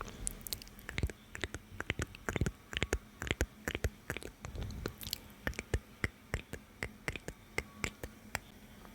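ASMR mouth sounds close to the microphone: soft wet clicks and smacks of lips and tongue, coming irregularly a few times a second.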